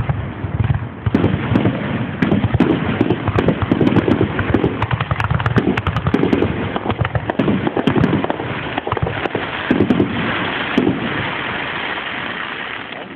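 Fireworks going off in quick succession, a dense run of bangs and pops; near the end it gives way to a steadier crackling that fades.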